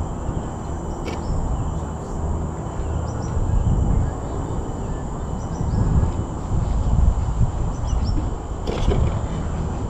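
Low, gusting rumble of wind buffeting the microphone, with a few short, faint bird chirps and a steady thin high tone behind it.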